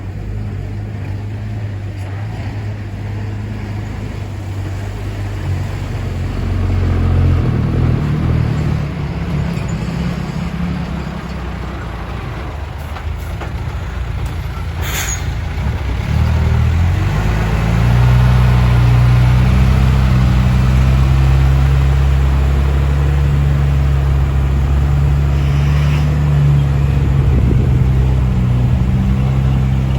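Diesel engines of ten-wheel dump trucks running, their low pitch shifting, with a short sharp hiss about halfway through. The engine sound grows louder and steadier a little after the hiss.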